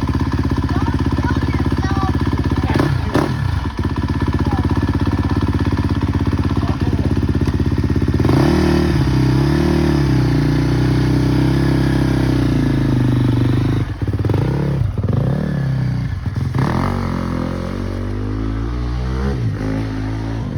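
Dirt bike engine idling steadily, then revved up and down several times from about eight seconds in; near the end it pulls away, its pitch dropping as it fades.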